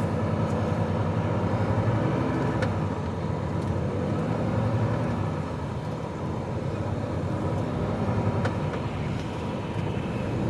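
HGV lorry's diesel engine running steadily, with a couple of faint clicks.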